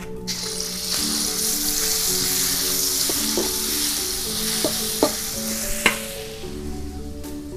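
Ground spice paste dropped into hot oil in a stainless steel wok, frying with a loud sizzle that starts just after the beginning and dies down near the end. A metal spatula stirs it, clinking sharply against the wok a few times.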